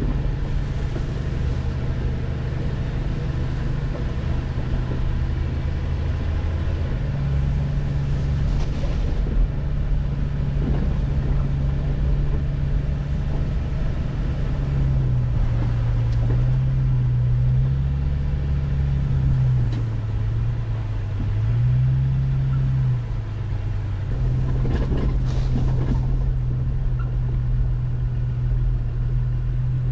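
1999 Jeep Cherokee XJ driving on a trail, its engine running with a steady low hum; the engine note rises and falls several times around the middle as the speed changes.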